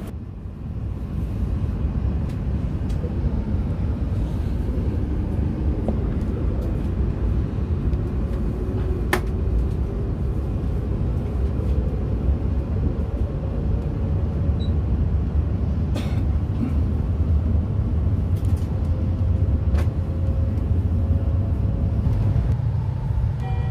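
E5 series Shinkansen heard from inside the passenger cabin as it pulls out of the station: a steady low rumble with a faint whine that rises slowly in pitch as the train gathers speed, and a few light clicks. Background music comes in near the end.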